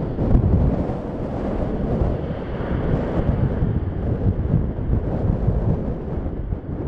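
Strong gusty wind buffeting the microphone, a heavy fluctuating rumble, with the jet noise of an Airbus A320 dying away beneath it.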